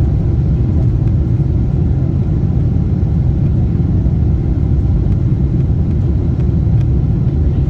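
Steady low rumble of a Boeing 747-8 heard from inside the passenger cabin: engine and airflow noise, even and unchanging.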